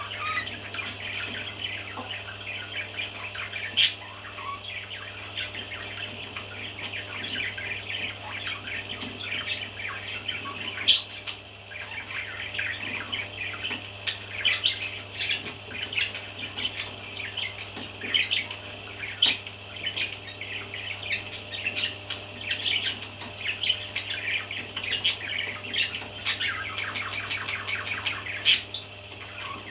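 Baby parrots chirping constantly in a dense chatter of short, high calls, broken by a few sharp clicks, over a faint steady low hum.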